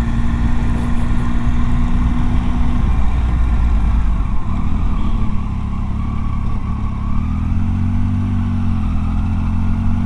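Motorcycle engine running on the road, steady at first, then dropping in pitch about three seconds in and climbing again through the gears.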